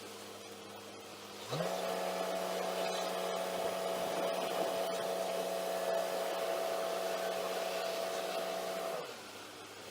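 Truck engine rising quickly from idle about a second and a half in, holding a steady raised speed with an even hum, then dropping back to idle near the end. This is typical of the engine speeding up to drive the loader crane's hydraulic pump.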